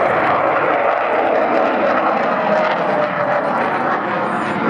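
Jet noise from Avro Vulcan B2 XH558's four Rolls-Royce Olympus turbojets as the bomber flies past, a loud steady rush with a faint tone sliding slowly lower.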